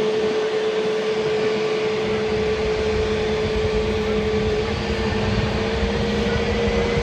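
Jet airliner engines running with a steady rushing noise and a constant droning whine, a fainter high whine rising slightly near the end.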